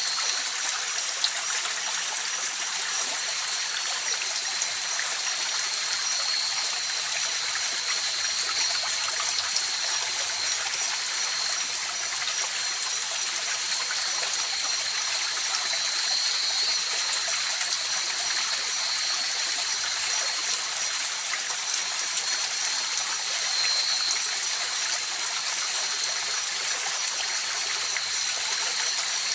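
River water flowing steadily, an even rushing hiss of running water, with two faint, steady high-pitched tones held above it.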